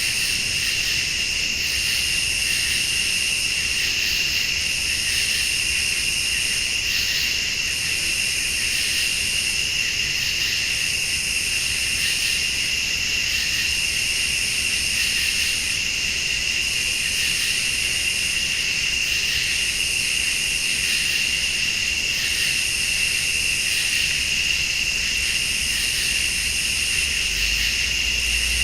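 Crickets and other late-summer insects chirring steadily in a night chorus, with a higher-pitched insect call pulsing on and off about every two seconds.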